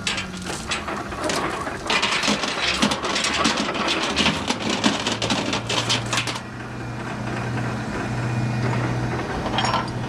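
Busy clattering and rustling with many sharp clicks, which stops about six seconds in, leaving a semi truck's diesel engine idling steadily.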